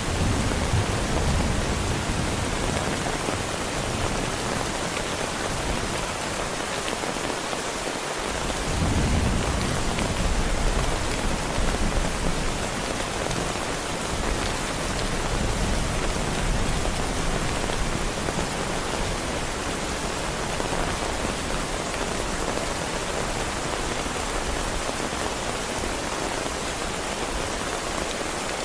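Heavy rain falling steadily in a dense, even hiss. A low rumble of thunder fades away at the start, and another rolls in about nine seconds in.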